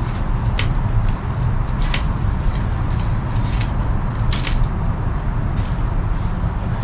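Bankline cord and a gloved hand rustling and ticking as the line is wrapped around a wooden pole: a few short, scattered handling noises over a steady low rumble.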